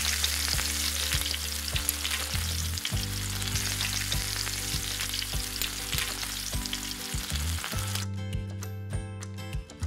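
Food sizzling and frying in a miniature frying pan over soft background music. The sizzling cuts off about eight seconds in, leaving only the music.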